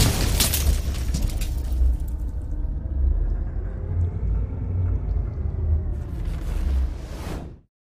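Gusty wind buffeting the microphone: a loud, uneven low rumble with bursts of hissing near the start and again near the end, and a faint wavering whine underneath. It cuts off abruptly shortly before the end.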